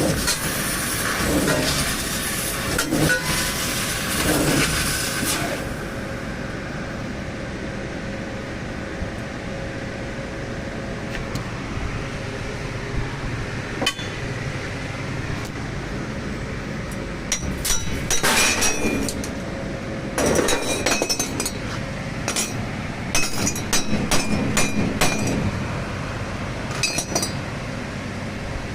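Machine-shop work noise around a CNC machine. A loud hiss lasts about the first five seconds, then a steady machine hum continues. From a little past halfway, bursts of sharp metallic clinks and knocks are heard.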